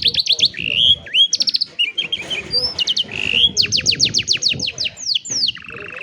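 Canary singing a varied song: fast trills of repeated notes that each sweep down in pitch, short rising chirps between them, and a lower, buzzy roll near the end.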